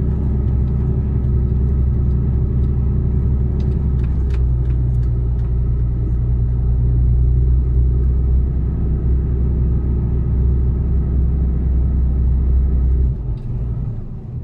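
Mercedes Actros truck's diesel engine pulling a loaded truck up a steep hill, a steady low drone. The drone drops away briefly near the end.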